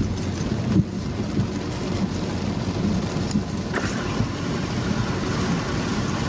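Car driving on rain-soaked city streets: steady engine and road noise, with a short knock about a second in.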